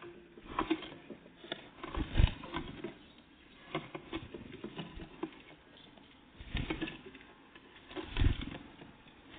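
Birds at a feeder: irregular light taps and knocks as they land and peck at the food, with two louder thumps, about two seconds in and near the end.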